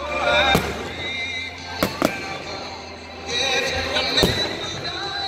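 Aerial fireworks shells bursting with sharp bangs, four in all, two of them close together about two seconds in, over music playing.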